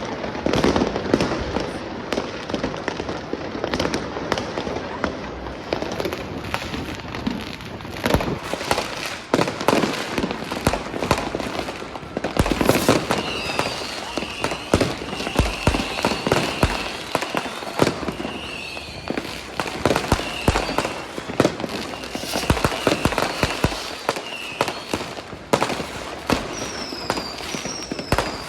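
Fireworks and firecrackers going off thick and fast, with overlapping bangs and crackling. From about halfway, warbling high whistles from whistling fireworks join in, and near the end come a few short falling whistles.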